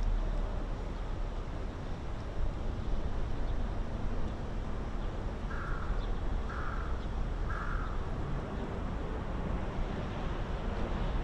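A crow cawing three times, evenly spaced about a second apart, over a steady low rumble.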